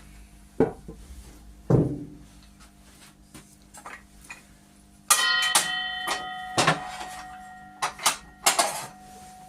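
Tools and timber being handled on a workbench: two sharp knocks, then a metal object clanks down about halfway through and rings with several steady tones that fade over a few seconds. More knocks and clatter follow as it rings.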